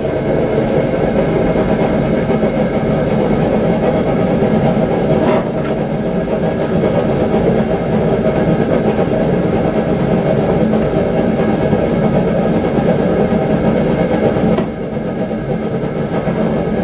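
Forge running steadily with a constant loud drone, dipping briefly about five and fifteen seconds in, while a lawnmower-blade knife heats for its heat treat.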